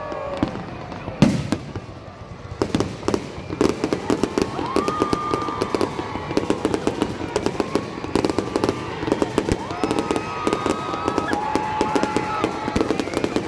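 Fireworks going off: a single loud bang about a second in, then a dense run of rapid crackling bursts that keeps on.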